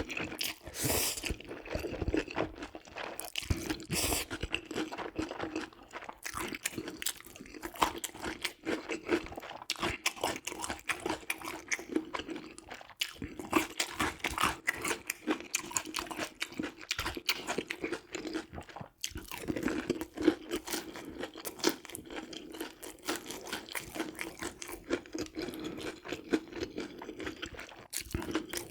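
Close-miked crunching and chewing of crispy boneless fried chicken, a dense run of sharp crackles bite after bite.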